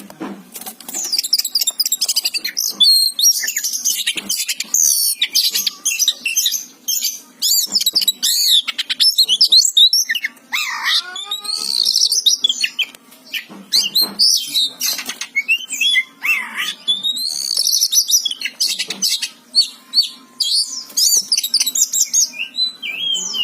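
Oriental magpie-robin singing in full, continuous song: a rapid, varied run of high whistles, trills and harsh chattering notes with only brief gaps.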